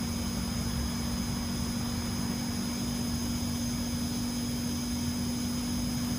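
LG MULTI V mini air-conditioning outdoor unit running: a steady low hum with a fainter high-pitched whine over a low rumble.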